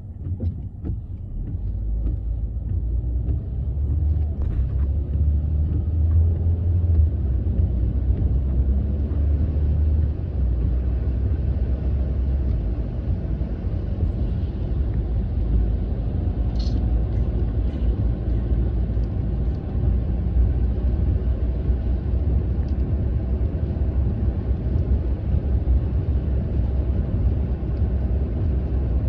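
Steady low road rumble of a car heard from inside the cabin, with the hiss of tyres on a wet road, growing louder over the first few seconds as the car picks up speed. A brief high chirp sounds a little past halfway.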